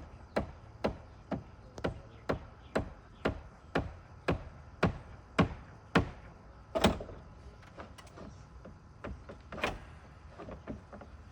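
Sharp, regular knocks about two a second, typical of a hammer striking a shingle ripper to cut nails under cedar shakes. The blows grow louder toward the middle, then give way to fainter, scattered taps.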